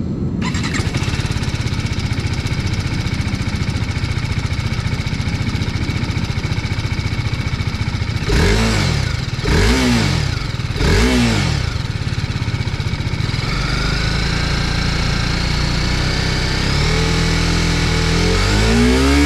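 TVS Apache RR310's single-cylinder engine and exhaust idling, then blipped three times in quick succession about eight seconds in. From about 13 s it is held at raised revs, and it is revved up once more near the end.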